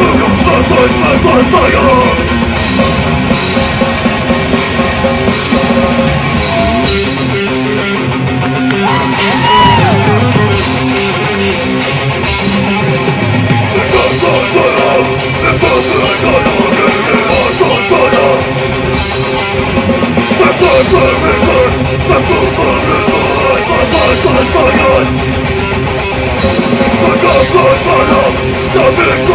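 Heavy metal band playing live at full volume: distorted electric guitars over a drum kit, dense and unbroken.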